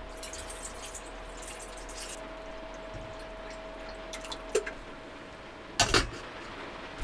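Heavy typhoon rain drumming steadily on a van's roof, with small clicks and handling noises of food preparation inside and one sharp knock about six seconds in.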